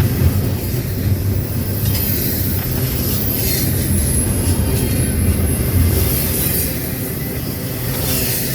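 Train cars rolling past with a steady low rumble and a thin high wheel squeal from about two to five seconds in.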